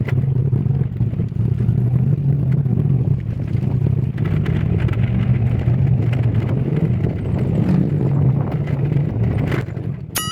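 Steady engine drone and road noise of a vehicle on the move. Near the end a wobbling cartoon 'boing' sound effect starts.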